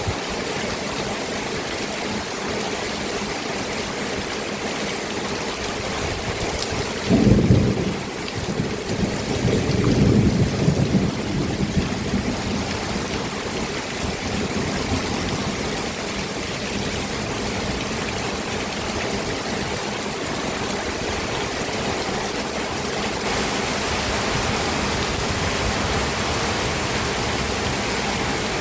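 Steady rain, with a low roll of thunder that breaks in suddenly about seven seconds in and rumbles on for several seconds as the loudest part. Near the end the rain's hiss turns a little brighter.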